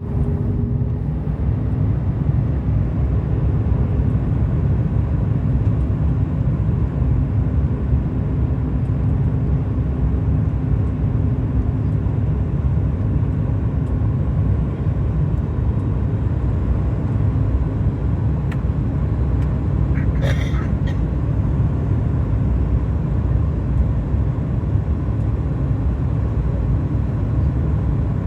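Cabin noise of a Boeing 737 MAX 8 in flight: a steady low rumble of its CFM LEAP-1B engines and rushing air, with faint steady hums above it.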